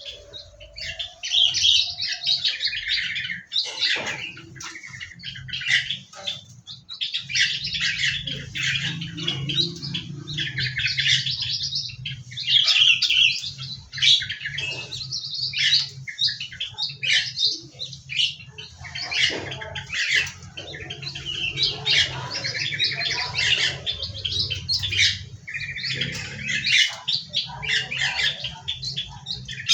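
Many small aviary birds chirping and twittering, their short calls overlapping in quick runs with hardly a pause. A low steady hum runs underneath from about seven seconds in.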